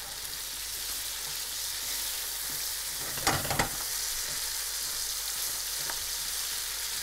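Shrimp frying in a hot pan in their reducing sauce, with a steady sizzling hiss. There are a few short knocks from stirring about three seconds in.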